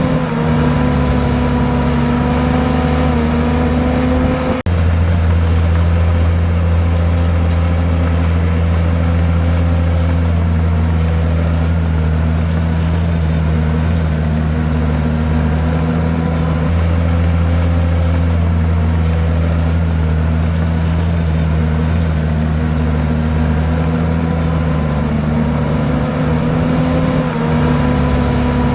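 Komatsu bulldozer's diesel engine running hard, its pitch dropping and rising as the load changes. The sound breaks off for an instant about four and a half seconds in.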